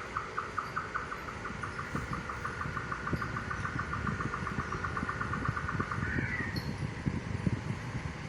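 A bird calling: a series of short clipped notes that speed up into a fast run and end about six seconds in with one higher note. A low rumbling noise runs underneath.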